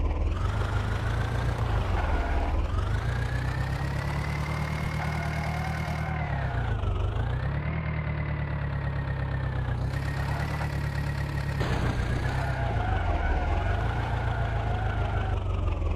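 Tractor diesel engine running continuously, revved up and eased off several times so its pitch rises and falls, with clear dips about seven and thirteen seconds in.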